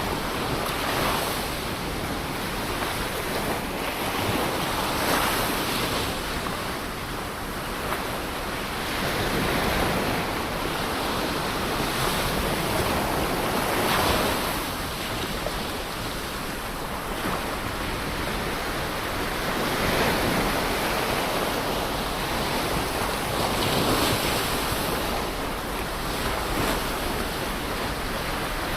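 Ocean surf: waves breaking in a continuous wash that swells and eases every few seconds.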